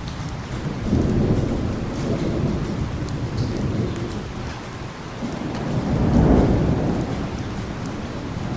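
Steady heavy rain with rolling thunder: a rumble swells about a second in, and a louder peal builds and fades around six seconds in.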